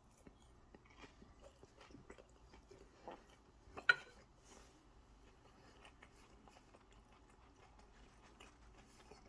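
A person biting into and chewing crunchy hash browns, faint and irregular, with one louder crunch about four seconds in.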